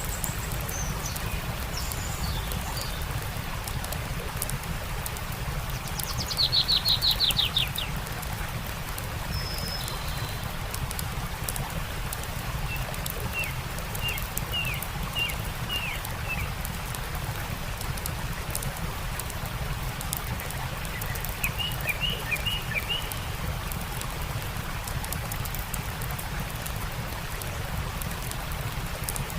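Steady rush of a stream with the faint crackle of a campfire, and wild birds calling over it: one loud, fast trill of notes about seven seconds in, then short runs of chirps around the middle and again two-thirds of the way through.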